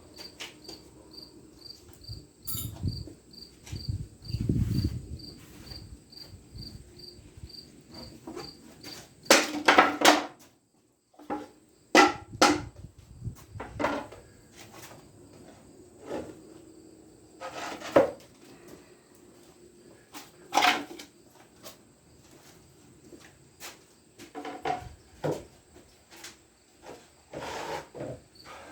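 Scattered knocks and clatters of metal parts and tools being handled on a workbench, with a low rumble of something being shifted early on. Under it, a faint high chirp repeats about two to three times a second and stops about a third of the way in.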